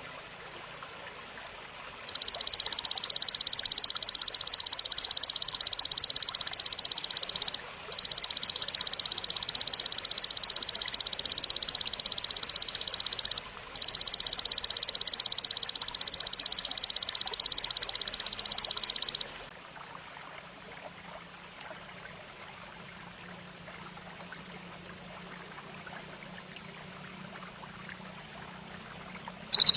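Belalang insect stridulating: three long, dense, high-pitched buzzing trills of about five to six seconds each, with two brief breaks between them, starting about two seconds in and stopping about two-thirds of the way through. Faint background hiss fills the rest.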